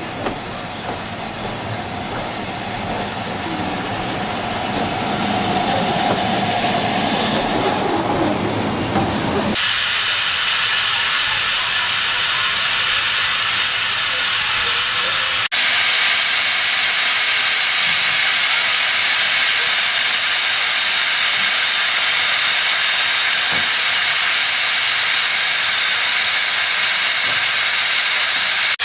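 Steam locomotive releasing steam. The sound grows louder over the first few seconds, then changes abruptly about a third of the way in to a loud, steady hiss.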